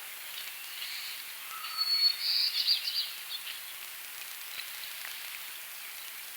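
Wild birds singing: a short whistled note about two seconds in, then a quick run of chirps, over a steady high background hiss.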